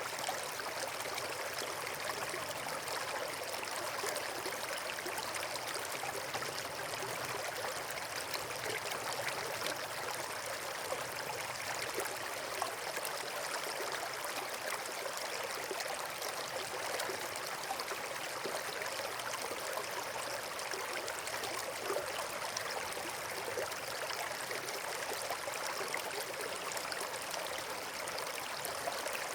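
Steady rushing of flowing water from a stream or small waterfall, even and unbroken.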